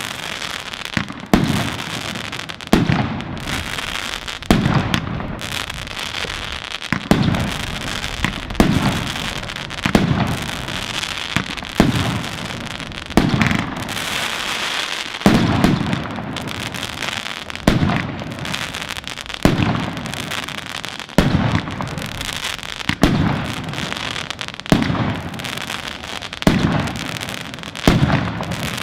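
Fireworks going off in a steady barrage: a deep boom about every one and a half to two seconds, each dying away, over continuous crackling.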